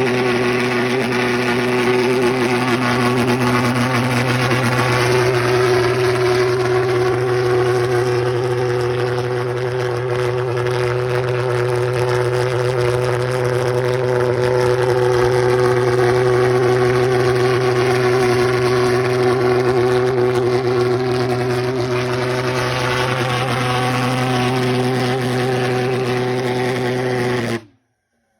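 Pulse jet engine running on diesel: a loud, steady low drone with a strong fundamental and a stack of overtones, over a wide rushing noise. It cuts off suddenly near the end.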